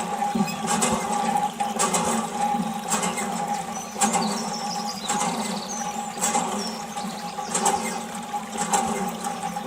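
Small homemade water pump running with a steady hum, water splashing in surges about once a second.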